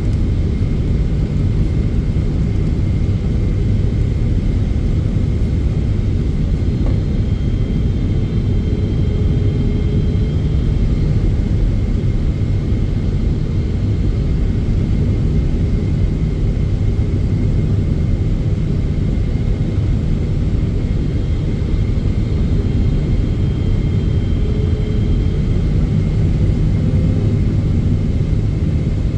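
Steady cabin rumble inside a Boeing 777-300ER, from its engines and the airflow past the fuselage. A faint steady whine sits above the rumble, which shifts slightly in pitch twice.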